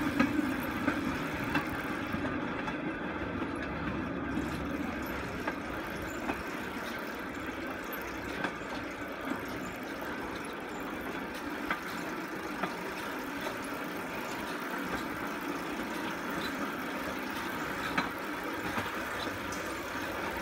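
Rail bike rolling along railroad track: steel wheels on steel rails make a steady rolling noise, with a sharp click every few seconds.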